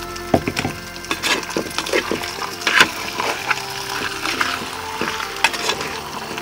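Chicken pieces sizzling as they fry in a clay pot, with irregular clicks and scrapes of a spoon stirring them against the pot.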